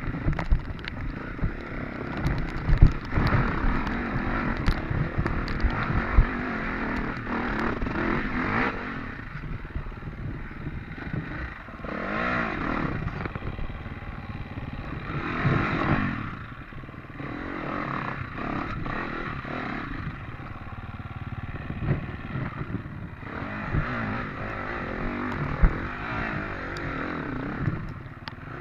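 Off-road dirt bike engine revving up and down as it is ridden over rough ground, with repeated surges in revs. Scattered sharp knocks and rattles come from the bike and the terrain.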